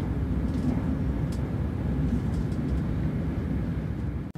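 Steady low rumble of a Class 168 HybridFLEX diesel-battery hybrid train running at speed, heard from inside the passenger saloon. It drops out briefly near the end.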